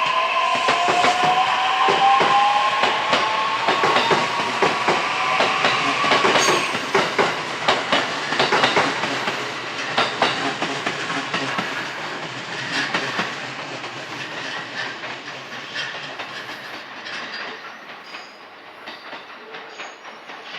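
JR E131 series electric train's hybrid SiC VVVF inverter whining, two tones rising in pitch for about the first six seconds as the train accelerates, with wheels clacking over rail joints. The sound fades steadily as the train draws away.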